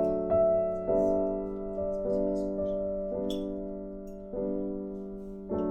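Slow, gentle background piano music: chords struck about every second, each ringing and fading before the next.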